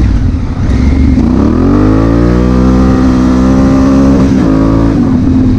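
Honda Africa Twin CRF1000L's parallel-twin engine accelerating: its pitch rises over about a second, holds steady at speed, then drops a little near the end as the throttle eases.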